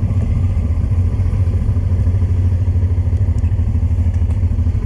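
Honda Transalp 600 motorcycle's V-twin engine running steadily, its exhaust pulsing evenly, heard from on the bike.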